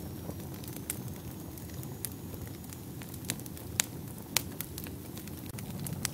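Fire burning in a fireplace: a steady low rumble of flames with sharp crackles and pops every second or so, the loudest two a little past the middle.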